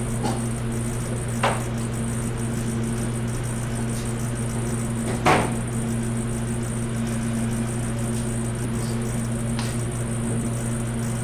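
A steady low machine hum, with two sharp metallic knocks from hand tools on engine parts: a light one about a second and a half in and a louder one about five seconds in.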